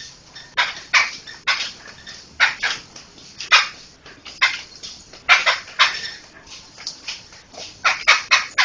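Poksay (laughingthrush) giving harsh, rasping chattering calls, short noisy strokes repeated irregularly a few times a second.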